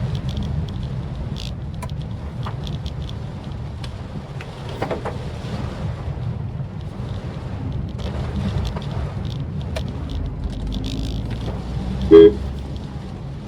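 Maruti Suzuki Swift Dzire driving in the rain: a steady low road and engine rumble with scattered light ticks, and one short, loud car-horn toot about twelve seconds in.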